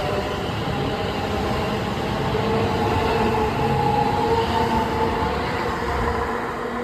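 London Northwestern Railway Class 730 Aventra electric multiple unit pulling away, its wheels rumbling on the rails with a steady electric traction motor whine. The sound is loudest about four seconds in and eases off near the end.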